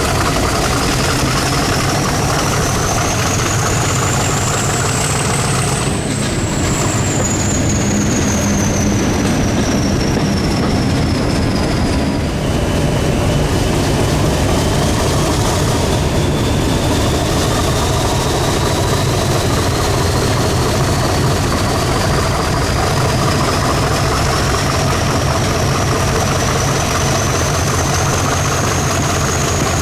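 British Rail diesel locomotive engine running steadily with a deep rumble, a thin high-pitched whine over it that climbs, falls away, then climbs slowly again.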